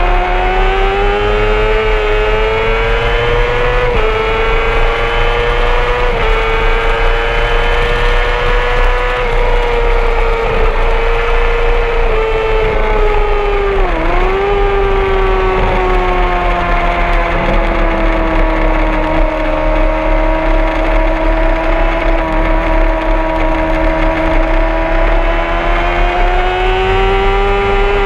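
Honda CBR600RR's inline-four engine running hard at high revs. The pitch climbs over the first few seconds, holds high with brief dips, drops sharply and recovers about halfway through, runs lower for a stretch, then climbs again near the end.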